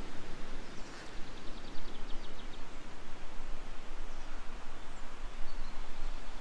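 Outdoor ambience: a steady even noise, with a small bird singing a quick trill of rapid, evenly spaced high notes about a second in, and a faint single call later.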